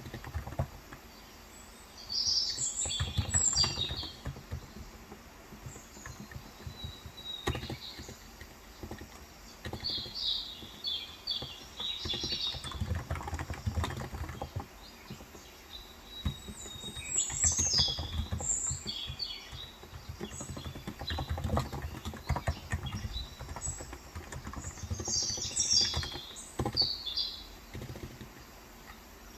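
Typing on a Cox Endeavor tenkeyless electrostatic capacitive keyboard with 35 g switches: runs of dull keystrokes, with pauses between them. Birds chirp outside in short bursts of calls four times, and these are the loudest sound.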